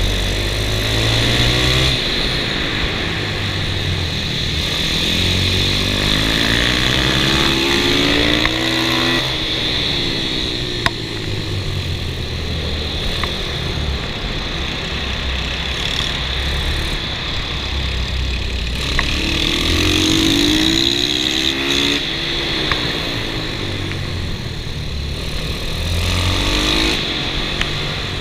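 Kawasaki KLX110 pit bike with a 143 cc big-bore kit: its single-cylinder four-stroke engine is heard close up from on board, revving up and falling back again and again as it accelerates down straights and slows for corners.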